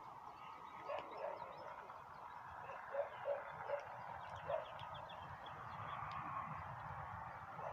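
Outdoor animal calls: about six short, low calls, singly and in pairs, over a steady faint chorus of distant calling.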